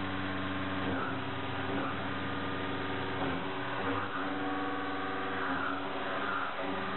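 A 2-inch five-flute mid-feed shell mill cutting 4140PH steel at 1050 RPM: a steady humming tone with overtones, the five teeth striking the steel about 88 times a second. The tone shifts slightly every second or two as the cut changes.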